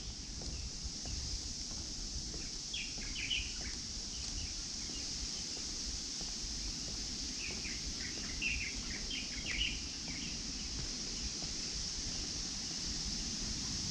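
Outdoor park ambience: a steady high drone of insects, with small birds chirping in short flurries about three seconds in and again in the second half.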